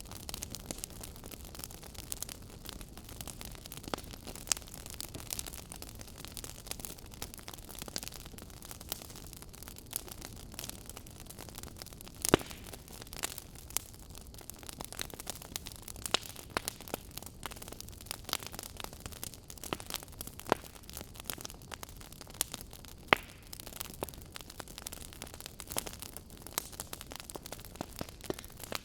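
Wood fire crackling in a fireplace: a steady soft hiss with frequent, irregular sharp pops, the loudest about twelve seconds in and another strong one a little past twenty seconds.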